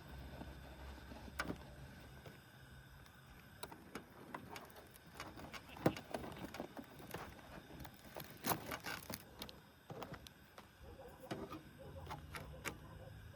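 Scattered light clicks and knocks, like gear being handled, over a faint low hum that fades after the first few seconds and returns near the end.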